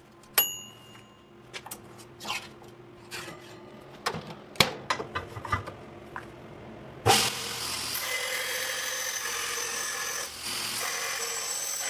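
A few metallic clinks and knocks, one struck piece of metal ringing briefly, then about seven seconds in a power grinder starts suddenly and runs steadily, grinding metal.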